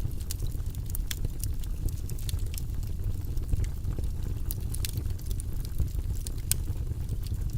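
Campfire crackling: frequent irregular pops and snaps over a steady low rumble.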